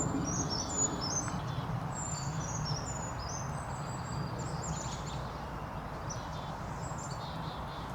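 Birds chirping with quick, high notes, thick for the first five seconds or so and sparse after, over a steady hiss of outdoor background noise.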